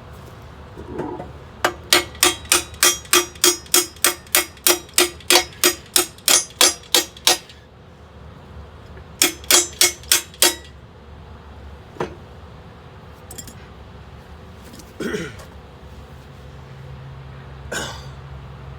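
Hammer blows on steel, each ringing at the same pitch: about twenty strokes at roughly three a second, a pause, then five more, with a few single knocks afterwards. This fits a tight pin being driven into the rebuilt thumb bracket of an excavator. A steady low engine hum runs underneath.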